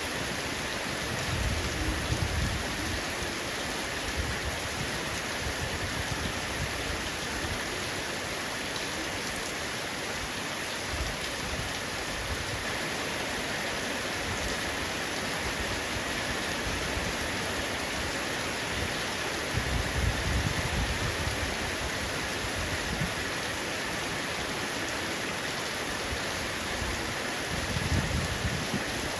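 Heavy rain falling on a roof: a steady, even hiss of raindrops. Brief low rumbles rise under it a few times, about two seconds in, around twenty seconds and near the end.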